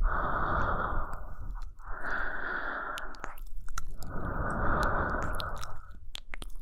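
Close-miked human breathing, three long slow breaths in a row, with small mouth clicks between them and near the end.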